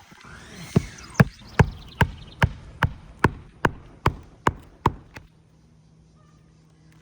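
A hammer driving a roofing nail through an asphalt shingle: about eleven sharp, evenly paced strikes, roughly two and a half a second, stopping about five seconds in.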